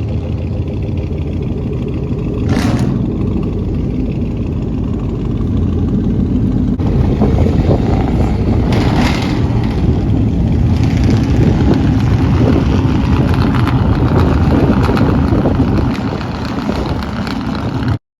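Truck engine running with a steady low rumble, with two brief hissing whooshes, one about two and a half seconds in and one around nine seconds.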